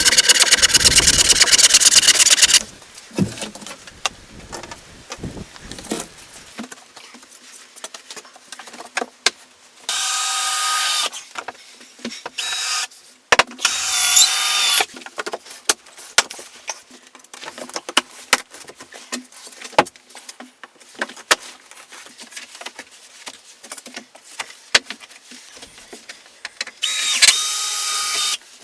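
A handheld power tool whirring in five short bursts, one of them dipping and rising in pitch, with scattered knocks and taps in between.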